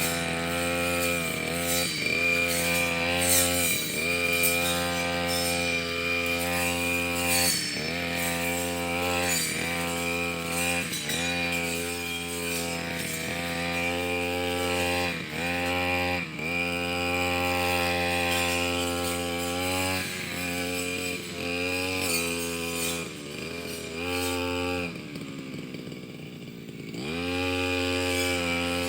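Brush cutter engine running at high revs, its pitch dipping briefly again and again as it works. About 25 seconds in it falls to a low idle for a couple of seconds, then revs back up.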